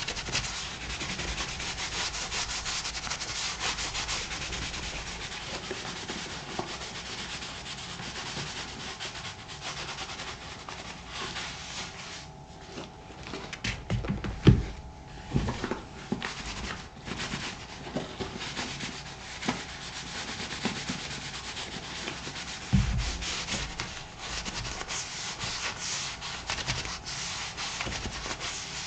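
A buffing glove rubbing over the leather of a black moc toe boot in rapid back-and-forth strokes, working in the shoe cream. A few low knocks come about halfway and again near the end.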